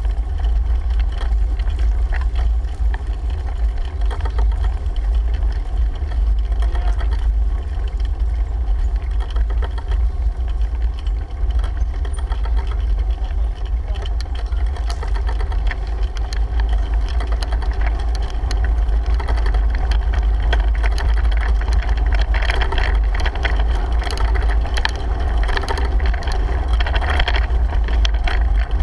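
Wind buffeting a GoPro on a moving bicycle, a heavy steady rumble, with ride noise from the road and small rattles that grow busier about two-thirds of the way through.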